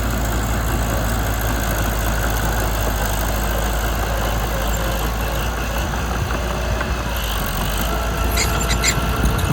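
Mitsubishi BD2 bulldozer's diesel engine running steadily, with a few short sharp metallic clicks near the end.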